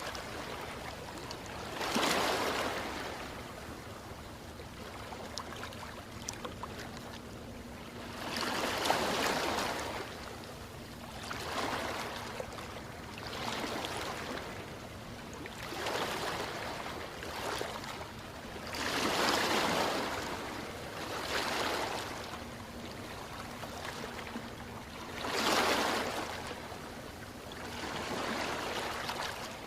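Ocean waves breaking and washing in, a surge of surf every few seconds over a steady wash of water, with the biggest swells about two, nine, nineteen and twenty-five seconds in.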